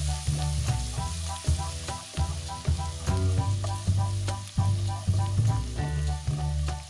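Minced garlic sizzling in hot melted margarine in a wok, stirred with a wooden spatula that scrapes and ticks against the pan. Background music with a steady repeating bass line plays over it.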